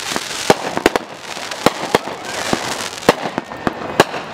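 Fireworks going off from the ground: a steady hiss with an irregular string of sharp bangs, about a dozen in a few seconds.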